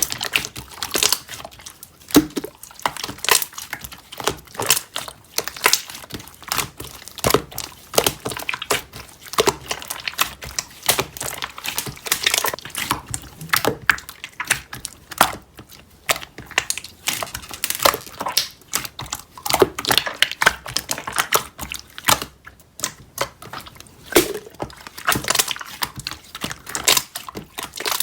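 Keyboard typing: quick, irregular clicks of keys, several a second, in short runs with brief pauses.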